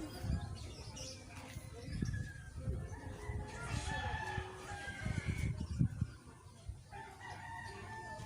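Rooster crowing: one long call about three and a half seconds in and a shorter call near the end, over an irregular low rumble.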